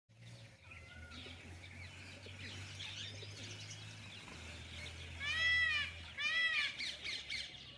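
Indian peafowl (peacock) giving two loud calls in quick succession past the middle, each a single arched wail rising and falling in pitch, over a background of small birds chirping.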